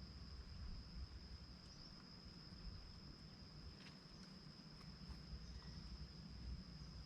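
A steady, high, unbroken insect trill over faint low rumble, with a few faint ticks; no francolin call in this stretch.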